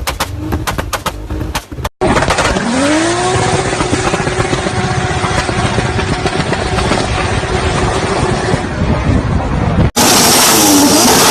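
Turbocharged car engines in quick succession. First comes a rapid, irregular run of sharp exhaust pops and bangs, typical of an anti-lag system. Then one engine revs up and holds at high revs, and near the end another car revs.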